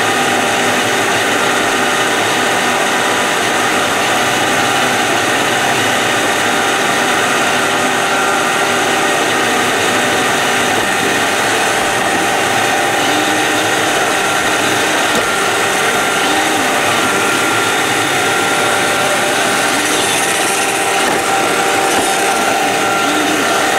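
iRobot Roomba 531 robot vacuum running: a loud, steady mechanical whir from its motors and brushes, with several steady tones over a hiss.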